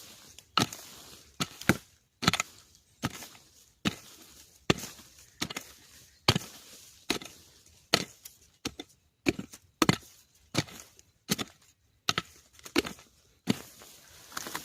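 Steady chopping, a sharp strike roughly every three-quarters of a second, some in quick pairs: a tool cutting into bamboo while a bamboo shoot is dug up.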